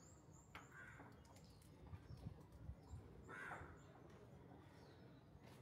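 Near silence with faint bird calls, twice.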